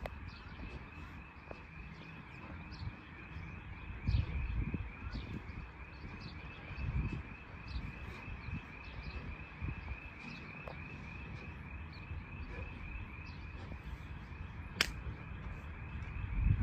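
An outdoor chorus of small animals chirping at one high pitch in a fast, even rhythm. Wind rumbles on the microphone in gusts, and there is one sharp click near the end.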